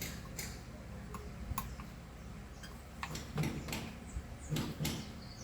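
Scattered light clicks and taps of a thin spatula against small metal and plastic parts as a carbon brush and its holder are pried loose on a small brushed vacuum-cleaner motor.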